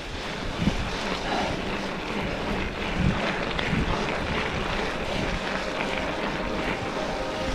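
Steady rushing noise of wind buffeting the microphone, with a few faint knocks.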